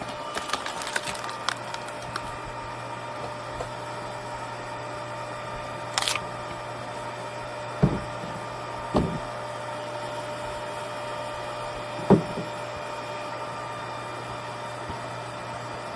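Hydraulic log splitter running with a steady hum while firewood is split: small cracks and crackling near the start, a sharp splintering burst about six seconds in, then three heavy knocks of wood, the loudest near the end.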